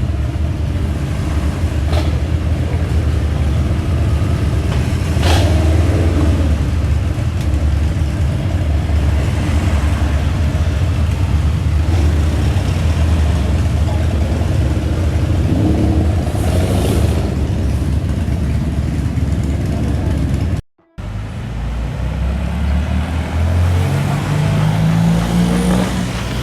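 A car engine running with a steady low rumble amid street noise. After an abrupt cut about three-quarters of the way through, an engine speeds up with a rising pitch as a car accelerates.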